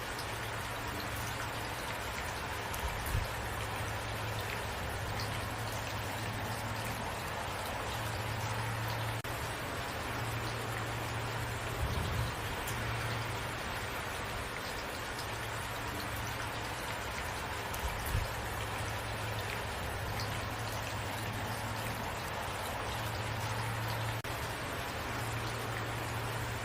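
Steady rain falling, with drops pattering on a surface and a few brief low thumps.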